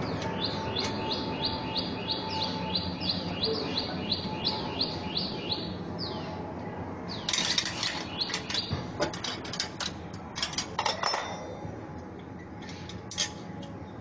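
A small bird calling a rapid series of sharp, high chirps, about three a second, for the first five seconds or so. From about seven seconds in come loud clicks, knocks and rustling clatter, over a steady background hum.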